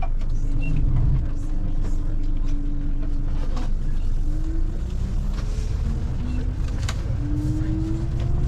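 Scania Touring coach heard from inside the cabin: a steady low engine rumble, with a thin whine whose pitch climbs, drops back and climbs again in steps as the coach gathers speed through the gears.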